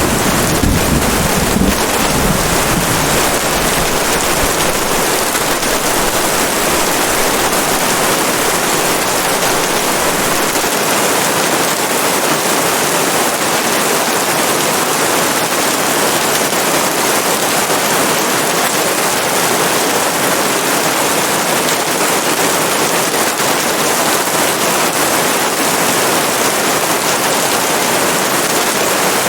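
Steady, heavy rain falling, a dense even hiss. A low rumble underneath fades over the first few seconds and drops away about ten seconds in.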